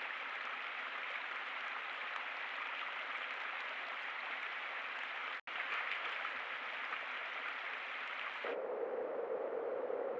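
Steady hissing noise with no distinct events. It drops out for an instant about halfway through and turns duller and lower near the end.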